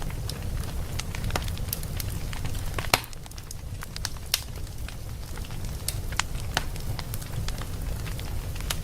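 Wood fire burning in a fireplace, a steady low rumble under irregular crackles and pops, the loudest pop just under three seconds in.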